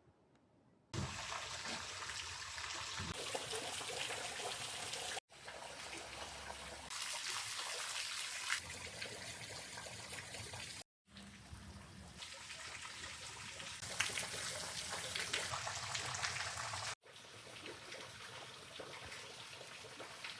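Trickling water heard in a run of short outdoor clips, each starting and stopping abruptly at a cut.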